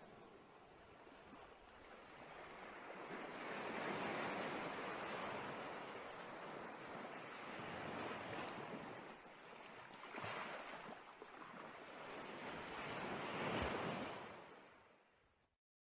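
Ocean surf: waves washing in and drawing back in slow swells, fading out to silence near the end.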